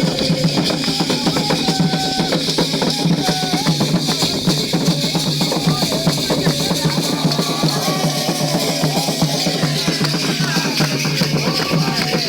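Candomblé ceremonial drumming on atabaque hand drums, a fast, steady rhythm, with voices singing over it.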